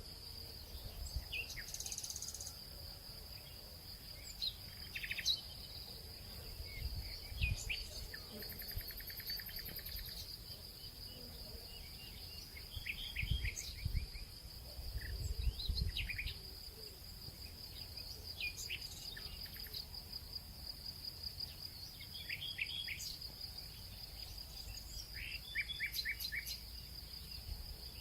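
Nature ambience: a steady high-pitched insect trill, like crickets, with short bird chirps scattered throughout. A few brief low rumbles come around the middle.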